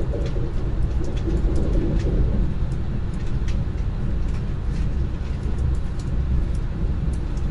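Lastochka electric train running at speed, heard from inside the carriage: a steady low rumble from the wheels and running gear, with scattered small sharp clicks.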